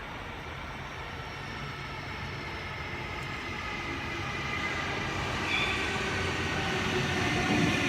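Sydney Trains Waratah (A set) electric train approaching the platform. Its running noise grows steadily louder, with a faint whine of several steady tones.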